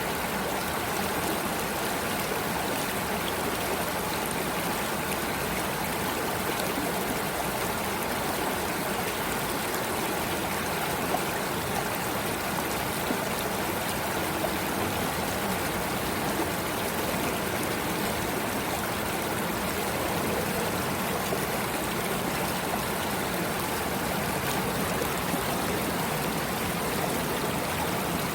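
Water flowing in a stream, a steady even rush with a few faint clicks.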